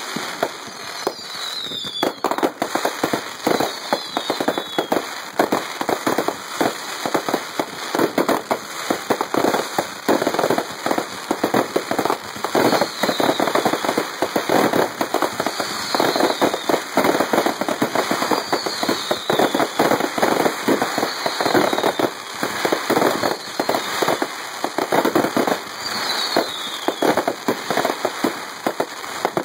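Fireworks display: a continuous barrage of aerial bursts and crackling stars, many rapid sharp pops and crackles overlapping, with short high falling tones every few seconds.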